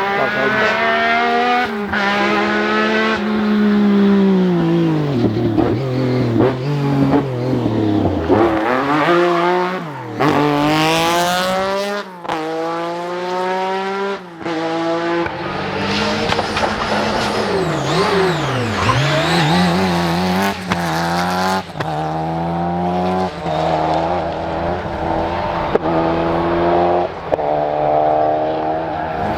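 Rally cars at full throttle, engines revving up and dropping back again and again through gear changes and lifts off the throttle. Several cars are heard in turn, the sound changing abruptly between them.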